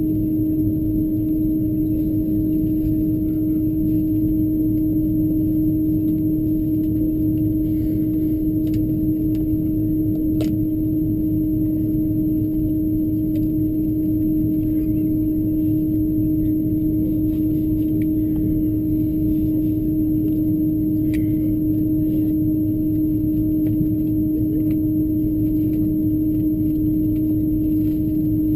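Steady cabin noise inside an Airbus A330-200 on the ground: a continuous low rumble with a steady droning hum, and a few faint ticks.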